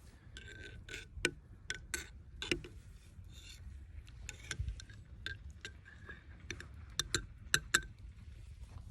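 Irregular sharp clicks and taps of small hard objects, coming in quick clusters and loudest near the end, over a low steady rumble.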